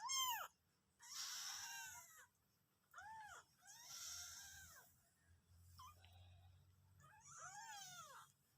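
A kitten meowing repeatedly: about five separate high meows that rise and fall in pitch, with short pauses between them, the first one the loudest.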